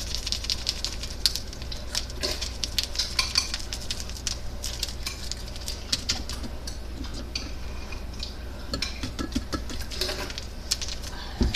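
Ramen seasoning packet crinkling and rustling in the hand, with rapid small clicks and light knocks against the bowl, as someone tries to empty the powder into the noodles and water and it won't come out.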